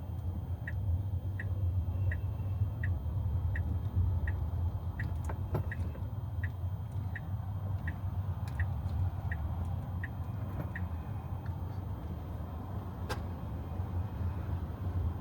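Inside a Tesla driving on a wet road: a steady low rumble of road and tyre noise. Over it the turn-signal indicator ticks about fifteen times, roughly three ticks every two seconds, then stops about two-thirds of the way through. A single sharp click comes near the end.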